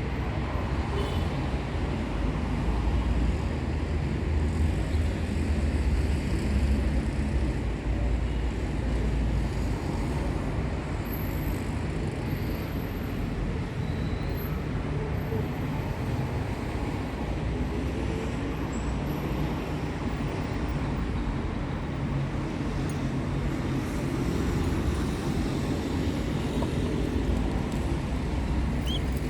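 Steady low rumbling background noise throughout, with no clear birdsong.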